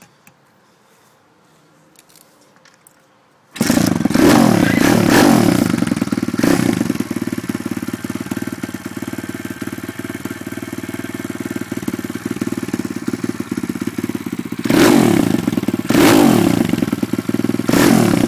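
Lifan 140cc single-cylinder four-stroke pit bike engine starting from ice cold without the choke: after a few faint clicks it catches about three and a half seconds in. It is revved in a few quick blips, settles to a steady idle, and gets two more throttle blips near the end.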